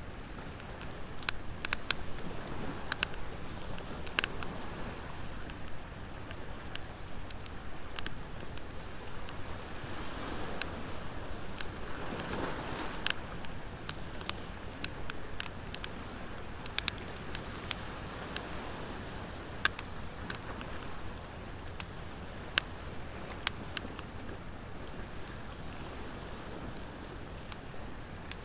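Wood fire crackling, with sharp pops and snaps scattered irregularly, over the steady wash of ocean waves; one wave swells and falls away near the middle.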